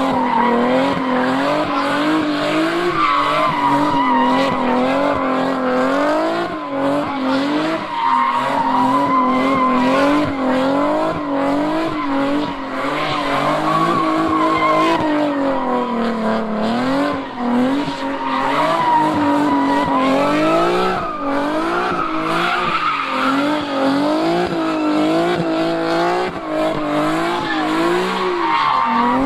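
A car engine held at high revs, its pitch rising and falling over and over, while its tires squeal and skid without a break as the car slides.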